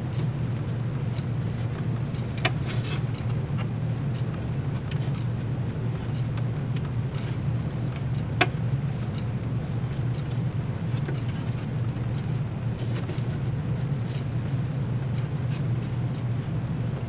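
Steady low hum of a running workshop machine, with scattered light clicks from handling the basket and its lacing and one sharper click about eight seconds in.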